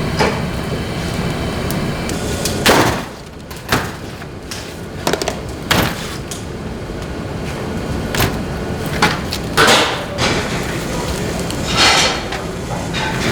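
Steady hum that drops away about three seconds in, followed by scattered sharp knocks and clinks of kitchen work.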